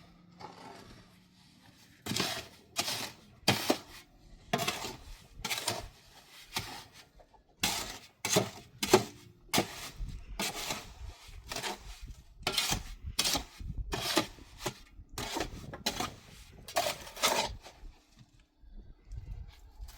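Repeated scraping strokes of a metal tool, irregular, about one to two a second, starting a couple of seconds in.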